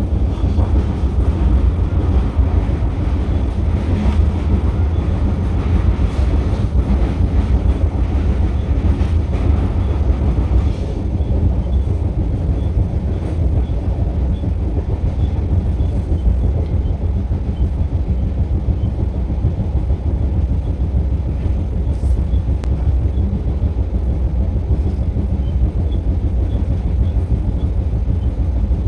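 Garib Rath express train running at speed, heard from inside the coach: a loud, steady low rumble of the wheels on the track, brighter and rattlier for the first ten seconds or so, then duller.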